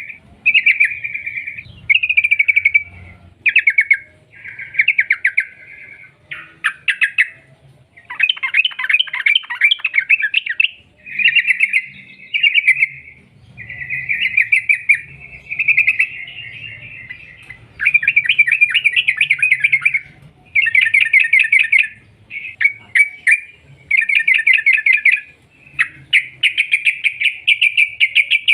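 Yellow-vented bulbul (trucukan) singing its long, rapid 'ropel' song: bursts of fast chattering notes, each a second or two long, repeated with short gaps.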